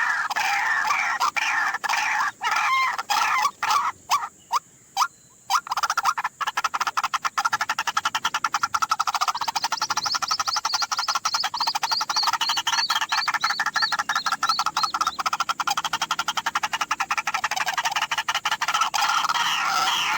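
White-breasted waterhen calling its croaking 'ruak-ruak' notes, repeated rapidly and continuously, with a short break about four to six seconds in.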